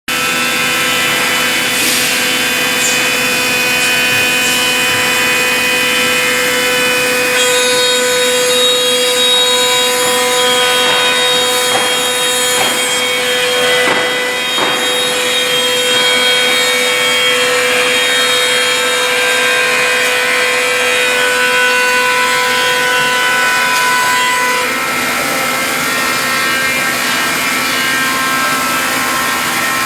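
WoodMaster 3D Pro Master T3 CNC router running and cutting wood: a steady spindle whine over continuous rasping cutting noise, with a few brief harsher scrapes partway through.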